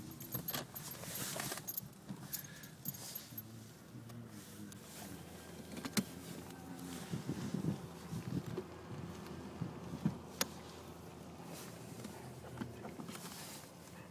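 Light metallic jangling, like keys, with scattered small clicks and rattles over a low vehicle hum.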